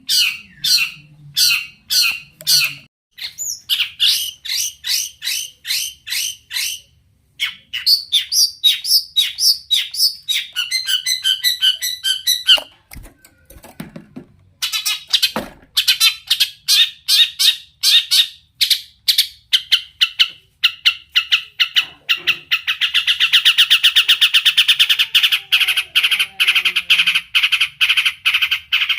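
Long-tailed shrike singing a varied song full of mimicked phrases: runs of harsh, repeated squawking notes at about three a second, fast chattering trills in the middle, a short pause, and a continuous buzzing rattle near the end.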